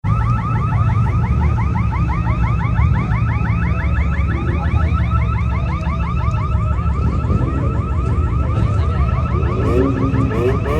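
Car alarm sounding a rapid, repeating chirping warble, about seven chirps a second, over the steady low rumble of running engines. The warble fades near the end.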